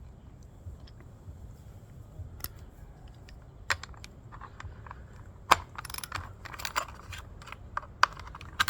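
Scattered metal clicks and clinks of the socket and blade-retaining nut being turned back onto an Echo edger's blade shaft, which runs counterclockwise to fit. The clicks come sparsely at first and grow busier about halfway through.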